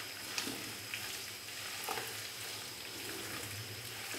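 Sliced potatoes frying in oil in a karahi, sizzling steadily while a spatula stirs them, with a few light clicks of the spatula against the pan.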